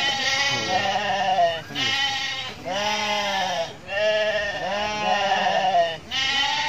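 A Garut sheep ram bleating over and over: about five long, loud bleats in a row, each lasting one to two seconds, with barely a pause between them.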